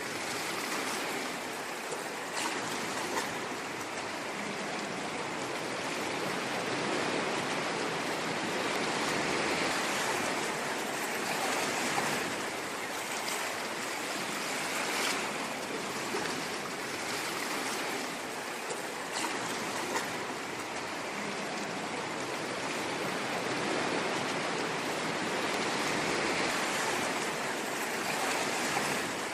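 Ocean waves washing in continuously, a steady rushing of surf and water that swells and ebbs every few seconds, with brief splashes.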